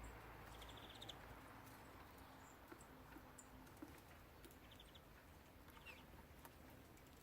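Small songbirds at a feeder giving faint, sparse high calls, including a brief rapid trill about a second in and a short falling note near the end, with scattered light ticks.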